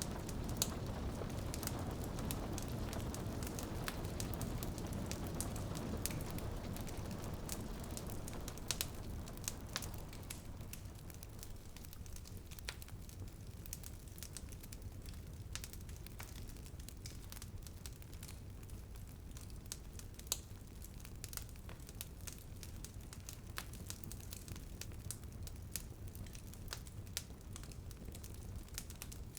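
Wood fire crackling in a fireplace, with many sharp pops and snaps. Under it, a steady rain haze fades away about a third of the way through, leaving the crackling on its own.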